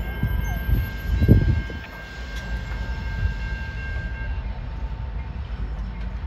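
Amtrak passenger train moving away on curved track: a low rumble that is loudest in the first two seconds, with a brief low thump about a second in, then drops off as the train recedes. Thin steady high tones sound over it and stop about four seconds in.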